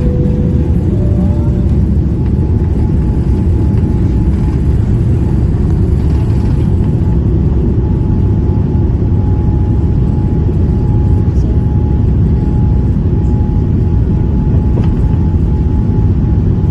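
Jet airliner cabin noise in flight: a loud, even rumble of engines and airflow, with a faint steady whine above it.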